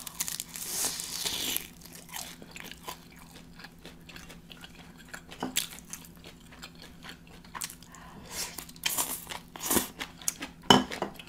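Close-miked eating sounds: a bite into a crisp oven-fried chicken wing with a crunch in the first second and a half, then chewing with scattered short clicks, and a second burst of chewing near the end as shredded green mango salad is eaten.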